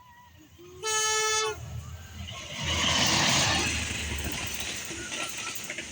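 Locomotive horn sounding one short blast about a second in, then the train rushing past with a loud rumble and rattle of wheels on the rails.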